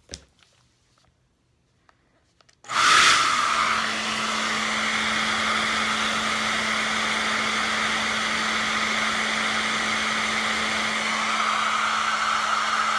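Hair dryer switched on about three seconds in, then running steadily: a loud rush of air over a constant motor hum.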